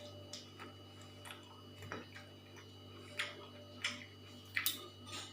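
Mouth sounds of someone eating: short wet clicks and lip smacks while chewing, a few louder smacks over the second half, over a steady low hum.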